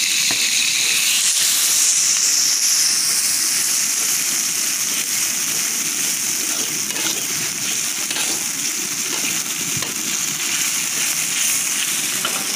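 Freshly added ground spice paste of shallots, garlic, candlenut and chilli sizzling in hot oil in a wok, being sautéed until fragrant. The sizzle is loudest in the first few seconds, and a metal spatula scrapes the pan now and then as it is stirred.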